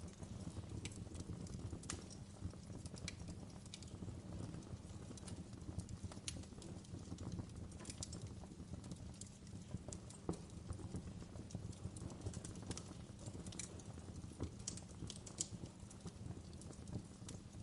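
Wood fire crackling in a fireplace: irregular sharp crackles and pops over a low steady rumble of the flames.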